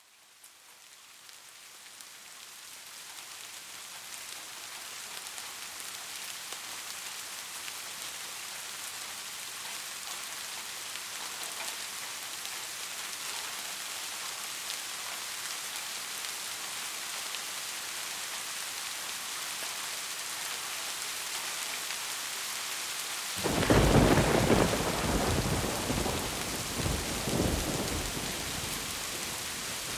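Steady rain, fading in over the first few seconds. About three-quarters of the way through, a loud thunderclap breaks in and rumbles for several seconds before dying back under the rain.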